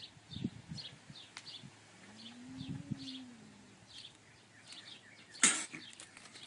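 Small birds chirping faintly, short high chirps every half second or so. A faint low tone rises and falls near the middle, and a single sharp thump comes about five and a half seconds in.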